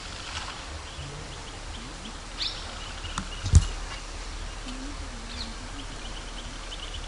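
Outdoor ambience of small birds chirping, with a rapid trill near the end. A single sharp thud about three and a half seconds in is the loudest sound.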